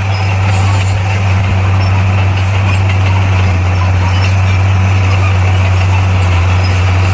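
Bulldozer's diesel engine running at a steady speed: a loud, low, unchanging drone.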